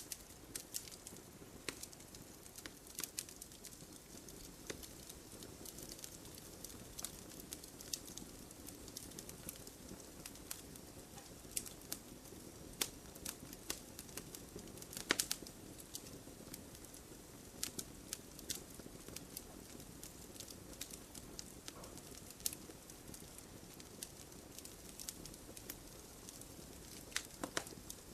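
Campfire burning with a steady low hiss and frequent sharp wood crackles and pops scattered throughout, a couple of louder pops standing out.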